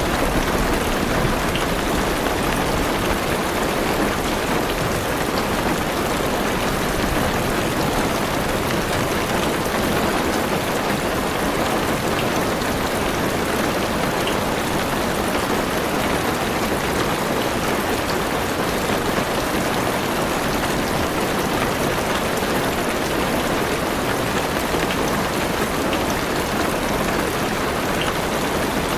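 Heavy rain drumming steadily on a car's roof and windows, heard from inside the car. The last of a low thunder rumble dies away in the first few seconds.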